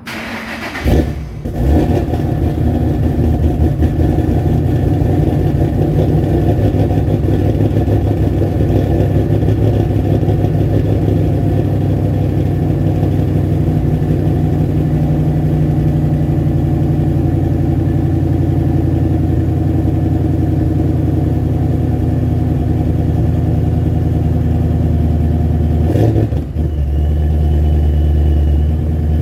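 A cammed 2006 Ford Mustang is cold-started through Flowmaster Force II axle-back mufflers: the engine catches in the first second or so and settles into a choppy, lopey idle from its aftermarket camshafts. Near the end the note dips briefly, then runs heavier and deeper.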